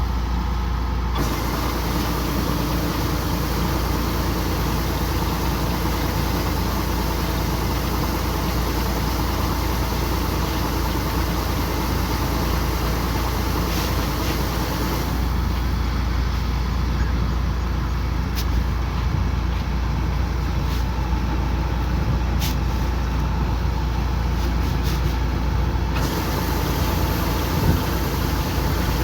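Kubota combine harvester running steadily under load, a continuous engine and machinery drone. A higher rushing hiss drops away for about ten seconds midway, then returns.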